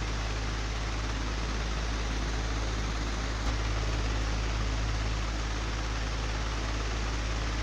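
Old, broken electric fan running steadily: a low motor hum under an even rush of air, with one brief tick about three and a half seconds in.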